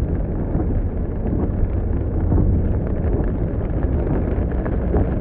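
Thunder rumbling deeply and continuously, with faint crackle through it.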